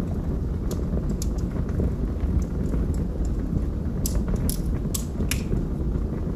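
Log fire burning in a fireplace: a steady low rumble of flames with scattered sharp crackles and pops from the burning wood, several pops coming close together about four to five seconds in.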